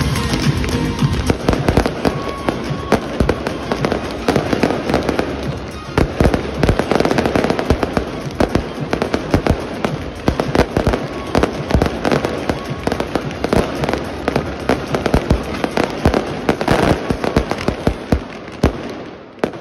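Fireworks display at full intensity: a dense barrage of rapid, overlapping bangs and crackling from bursting shells and rising comets, dropping away sharply near the end.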